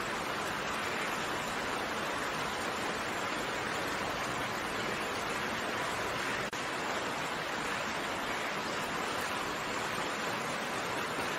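Steady rain: an even hiss of many raindrops, with a momentary dip about six and a half seconds in.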